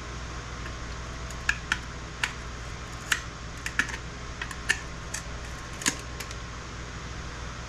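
A run of about a dozen sharp, irregular clicks and taps from hand tools and small electronic components being pried off a circuit board, over a steady low hum.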